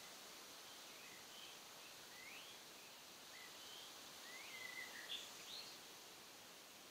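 Faint birdsong over a steady hiss: scattered short chirps and quick rising whistled notes, clearest a little past the middle.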